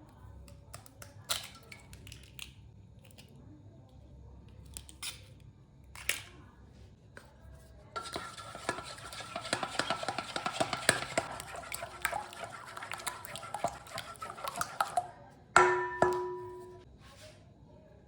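Kitchen utensils against a bowl: a few separate clicks and taps, then about seven seconds of rapid clinking and scraping, as in stirring or whisking, with the bowl ringing faintly. Near the end comes one sharp clank, the loudest sound, whose ringing tone fades over about a second.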